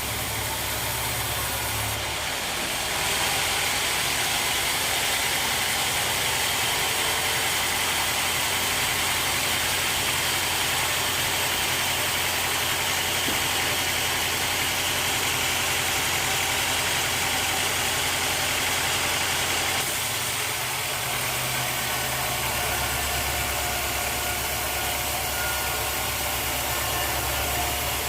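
Sawmill machinery running steadily, louder and hissier from about three seconds in until about twenty seconds in.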